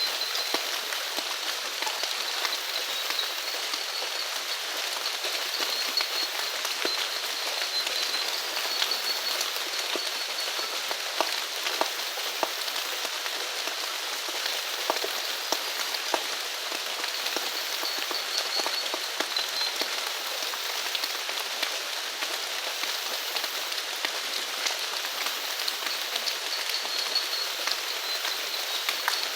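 Steady rain falling, with many individual drops pattering close by. A faint high-pitched trill comes and goes in the background.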